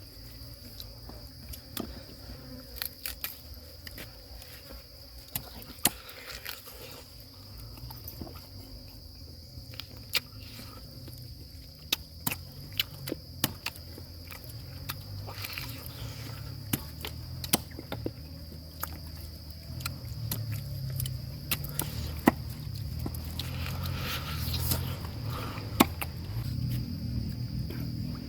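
Steady high-pitched drone of insects, with scattered sharp clicks and a low rumble that grows louder in the second half.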